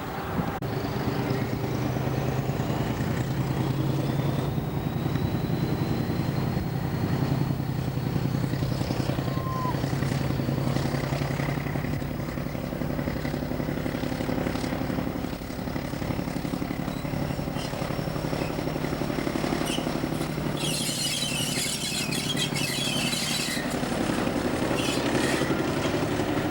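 Heritage diesel train engine running steadily at idle. About three quarters of the way through there is a burst of hissing air lasting a few seconds.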